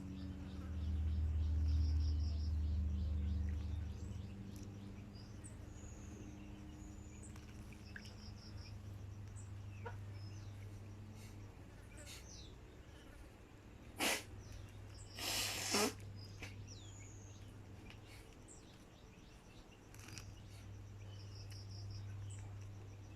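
Scattered short chirps and quick gliding calls from a small songbird, over a steady low hum that is loudest in the first few seconds. About fourteen seconds in come two brief noisy bursts, the second a little longer.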